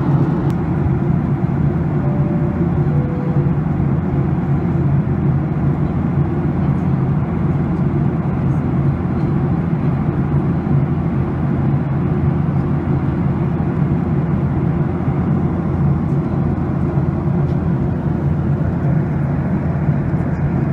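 Steady cabin noise of a jet airliner in flight: deep, even rumble of the engines and airflow. About two seconds in, a faint two-note chime falls from a higher note to a lower one.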